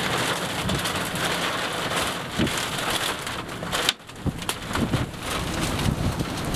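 Heavy rain hissing steadily in a thunderstorm. About four seconds in, it cuts out suddenly and gives way to gusty wind buffeting the microphone in low thumps.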